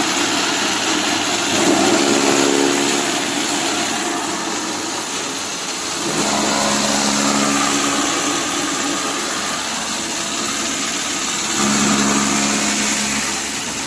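Chaff cutter machine running steadily, with louder spells about every four to five seconds, each carrying a low hum.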